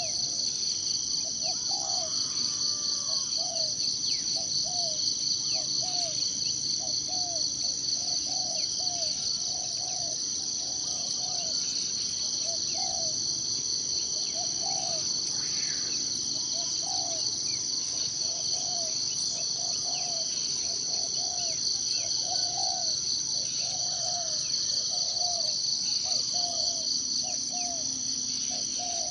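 Steady high-pitched chorus of trilling insects, with a long run of short, low calls repeated about twice a second and a few faint higher chirps.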